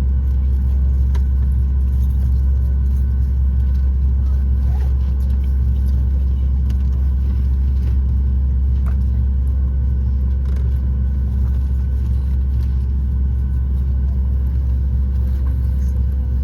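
Steady low rumble of cabin noise inside a Boeing 737-9 MAX, with faint steady hums above it and a few small clicks.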